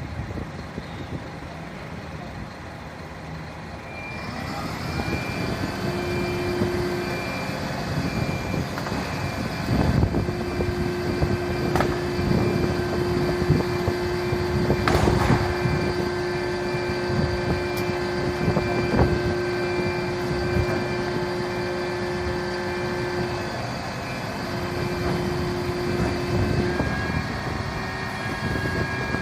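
Fire truck running, getting louder about four seconds in, with a steady low hum and a regular beeping warning tone.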